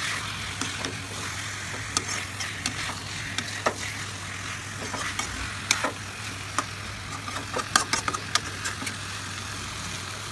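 Chicken frying in an onion-tomato spice paste in a pan, sizzling steadily while it is stirred, with a spatula knocking against the pan now and then. A steady low hum runs underneath.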